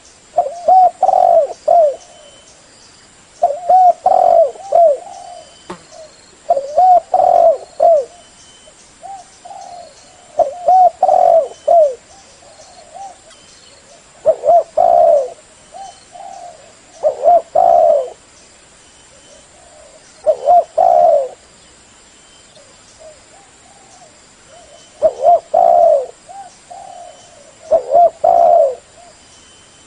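A spotted dove cooing over and over: a loud phrase of several low, rounded coos about every three seconds.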